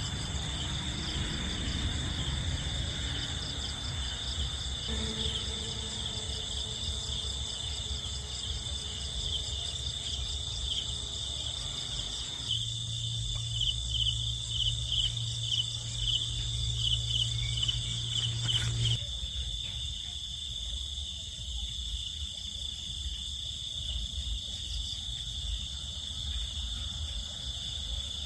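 Crickets chirping at night: a steady high trill, with a run of quick, separate chirps standing out in the middle. A low, steady hum sounds for about six seconds in the middle.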